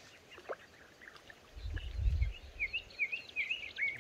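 Small birds calling with short whistled chirps, a run of repeated chirps in the second half. A brief low rumble about two seconds in.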